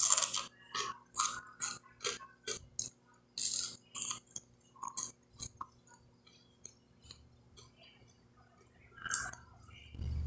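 Close-up chewing of crispy fried fish: a dense run of sharp crunches and crackles that thins out to scattered ones after about five seconds. A sip from a glass comes right at the end.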